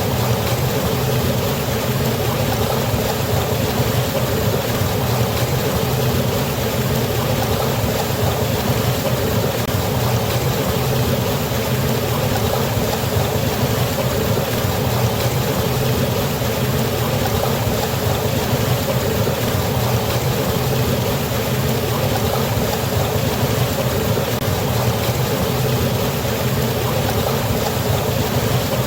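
Steady rushing of water falling over a waterfall into a river, an even, unbroken roar with no separate splashes or events.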